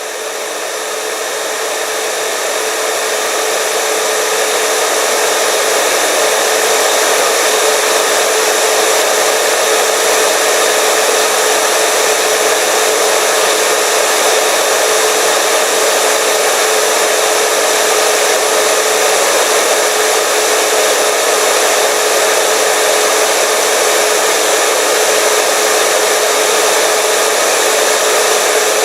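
Hair dryer running: a steady rush of air with a steady tone in it. It grows louder over the first few seconds, then holds level.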